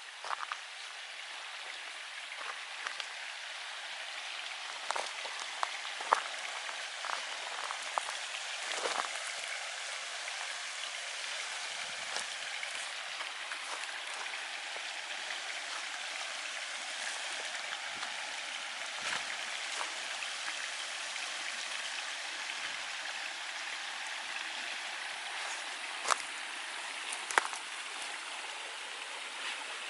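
Steady rushing of water with a few sharp clicks and knocks on top, the loudest about six seconds in and twice near the end.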